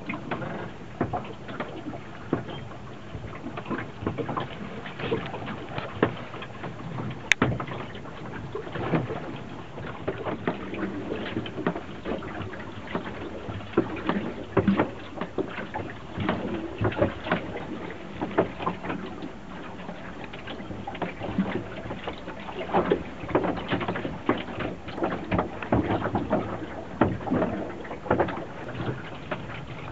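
Water splashing and slapping irregularly against a small sailboat's hull over a steady wash of water noise, with one sharp click about seven seconds in.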